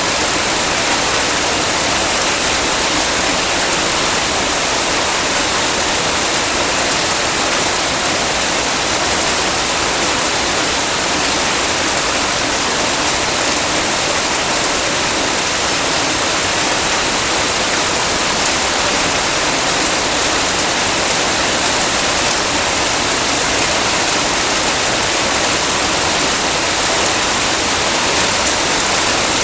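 Heavy rain falling steadily, a dense, even hiss with no single drops or gusts standing out.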